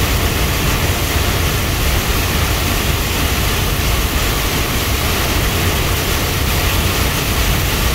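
Heavy rain pelting the cab and windshield of a moving truck: a loud, steady, dense hiss over the low rumble of the engine and tyres on the wet road.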